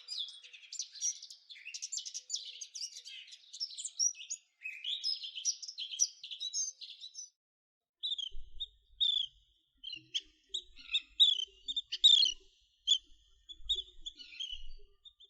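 Songbird song: a rapid, jumbled run of high warbling notes for about seven seconds, then, after a short silence, a series of short, separate high chips and whistles.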